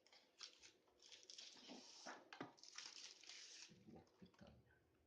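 Faint, irregular rustling and handling noises, mostly between about one and four seconds in, with a few soft low knocks near the end.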